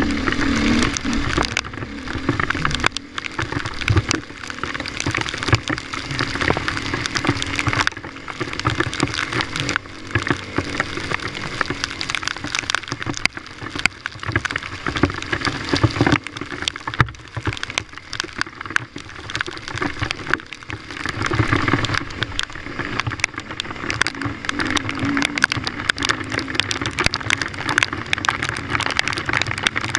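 Raindrops pelting the camera, a dense crackling patter, over a dirt bike's engine running underneath.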